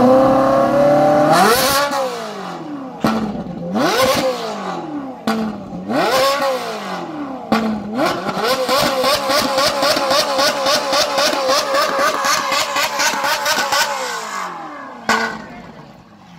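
Ferrari 458 Italia's 4.5-litre V8 exhaust, revved up and let fall three times in quick succession. It then holds a steady, wavering high note for several seconds before dying away near the end.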